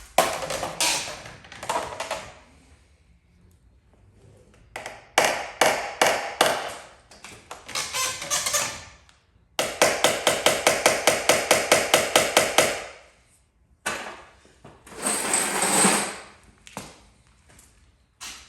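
Runs of light hammer taps on a truck body panel during paintless dent repair, including a fast even run of about eight taps a second lasting some three seconds. A short hiss comes in near the end.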